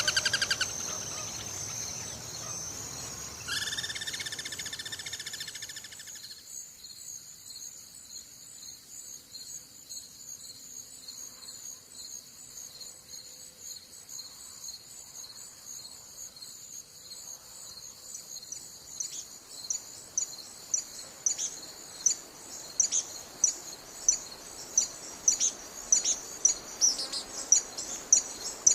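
Insects chirping in a steady high-pitched trill, with two buzzing calls with evenly spaced overtones near the start, one right at the beginning and one about four seconds in. From about twenty seconds in, a regular chirping pulse of roughly one or two a second grows louder toward the end.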